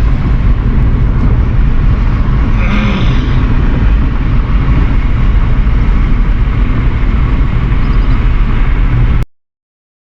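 Loud, steady rumble of a car on the move, road and wind noise heaviest in the low end, cutting off abruptly about nine seconds in.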